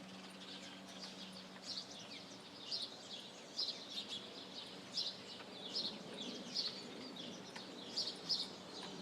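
Small birds chirping: many short, high chirps in quick succession, coming more often and louder from about two and a half seconds in.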